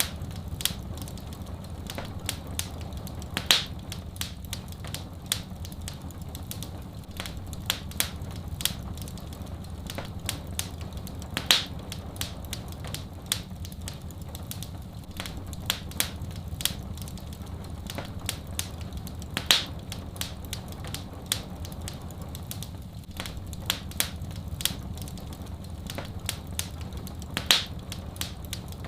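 Wood fire crackling and popping steadily, with a louder pop about every eight seconds, over a steady low hush.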